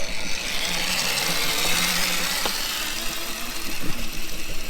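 Razor MX350 electric dirt bike's motor and chain drive whining as it rides, swelling over the first couple of seconds and then easing off.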